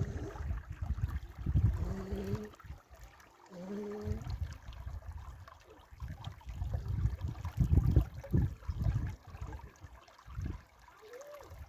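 Flowing water with an uneven low rumble that rises and falls. Two short pitched sounds come about two and four seconds in, and a brief rising tone comes near the end.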